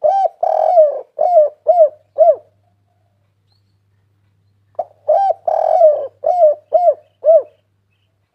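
Spotted dove cooing in two phrases about five seconds apart. Each phrase is a short coo, a longer drawn-out coo, then three short coos.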